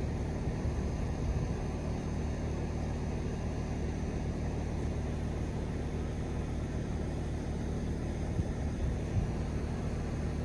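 Steady low hum of background noise, with no distinct events.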